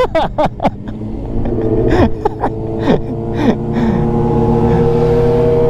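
Sportbike engine at low speed: a few short throttle blips whose pitch drops back, then a steady drone, over low wind rumble.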